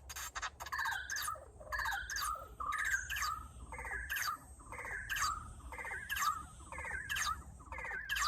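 Korg Volca FM synthesizer playing a sequenced pattern of short, chirp-like sweeping notes that repeat evenly about once a second.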